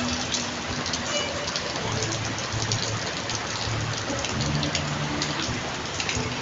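Gentle, steady rain falling, a continuous hiss with scattered individual drops hitting surfaces.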